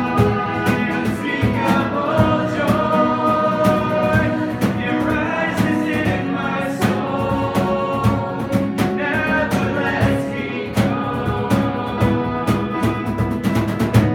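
Live worship band playing with a drum kit and voices, the drums keeping a steady beat, closing on one last loud accent at the very end.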